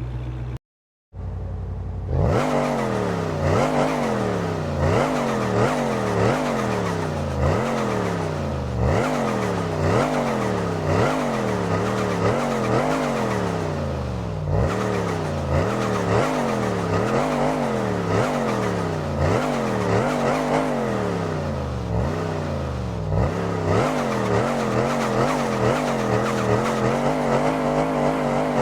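Supercharged Dodge V8 engine revved over and over, its pitch swinging up and down about once a second, with the supercharger's whine riding on the engine note.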